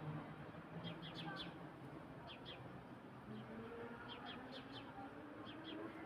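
Small bird chirping in repeated quick clusters of two to four short, high notes, over a steady faint outdoor hiss.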